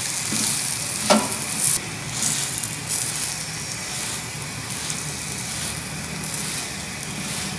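Ghee sizzling steadily under a stuffed mooli paratha frying on a hot tawa. A few short scrapes of a metal spatula pressing and turning the paratha come in the first few seconds.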